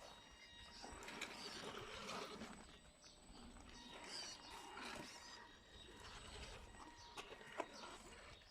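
Small RC scale truck crawling over backyard ground: faint irregular crunching and scraping of its tyres on dirt, with scattered clicks and a faint steady electric-motor whine.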